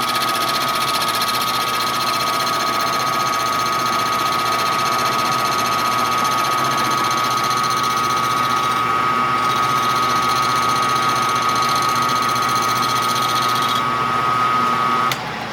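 Milling machine running a cut, a steady loud mechanical whine with a strong constant tone. The higher cutting noise drops away about 14 seconds in, and the machine shuts off just before the end.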